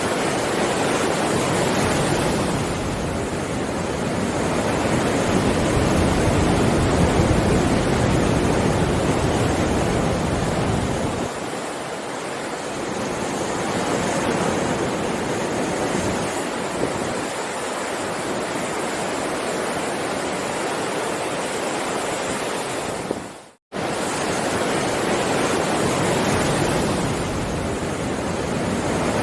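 Heavy sea waves breaking and washing in a continuous roar of surf that swells and eases over several seconds. The sound cuts out completely for an instant about two-thirds of the way through, then resumes.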